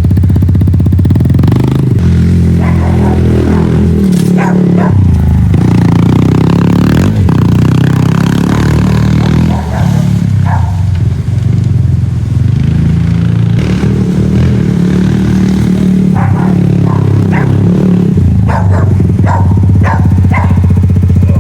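Small Honda dirt bike engine running while being ridden, its pitch rising and falling with throttle and gear changes.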